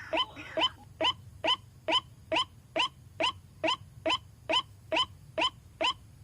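White-breasted waterhen calling: a steady series of short, quickly rising notes, a little over two a second. In the first second a denser tangle of overlapping calls dies away, leaving the single repeated note.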